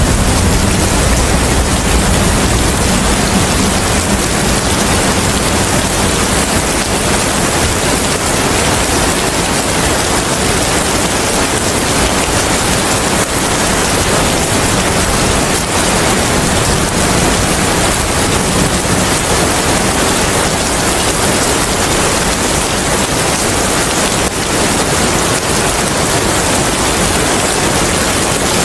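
Steady heavy rain with wind, a dense even hiss without breaks.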